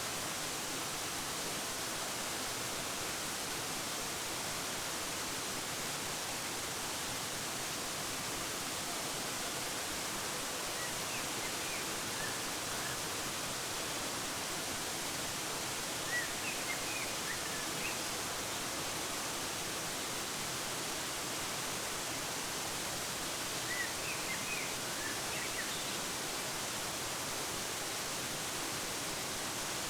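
Steady rushing of a waterfall, with a few brief clusters of faint high bird chirps partway through and again near the end.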